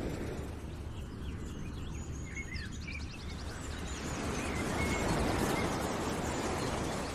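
Outdoor ambience: small birds chirping in short scattered calls over a steady rushing noise, which swells louder about halfway through.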